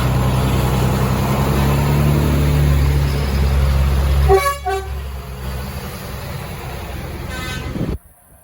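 Tractor engines running with a steady low drone, then a horn gives two short toots about halfway through, and a fainter horn sounds near the end. The sound cuts off abruptly just before the end.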